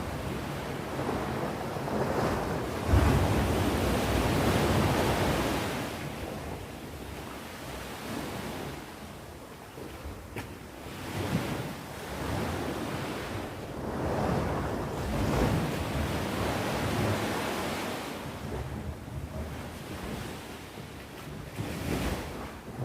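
Sea waves breaking and washing ashore, a steady rushing that swells and fades in repeated surges every few seconds.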